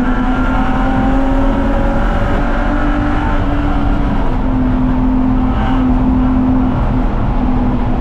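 BMW 330ci's straight-six engine running hard on track. Its pitch climbs over the first few seconds, drops about three and a half seconds in, then holds with small dips as the revs change.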